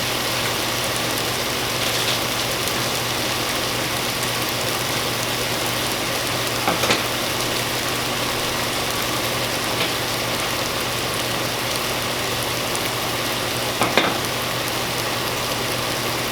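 Chicken breast strips sizzling steadily in olive oil in a frying pan, with a few light clicks from the pan or utensil, the loudest about 7 and 14 seconds in, over a faint low hum.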